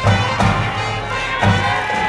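High-school brass band playing a baseball cheering tune, sustained horn notes over a repeated drum beat.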